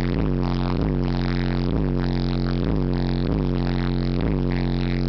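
Hip-hop track played loud through a truck's car-audio system of three 15-inch DC Level 4XL subwoofers on a Soundstream amplifier. It has a heavy, sustained bass line and a downward-sweeping hit repeating a little faster than once a second, with no vocals in this stretch.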